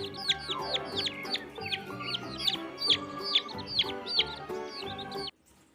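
Chicks cheeping rapidly, a string of short falling peeps at about three or four a second, over a steady tune of background music. Both cut off suddenly near the end.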